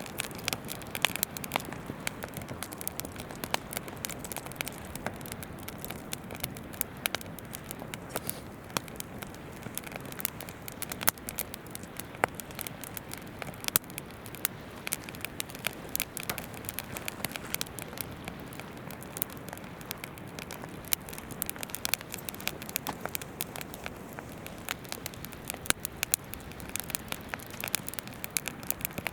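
Wood campfire crackling, with frequent irregular sharp pops and snaps, over the steady babble of a river.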